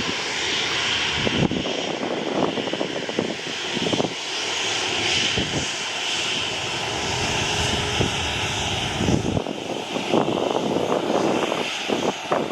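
Jet noise from a Boeing 737 MAX 8's CFM LEAP-1B turbofan engines, a steady hissing rush with a fairly high-pitched band that fades somewhat about nine seconds in. Wind gusts buffet the microphone.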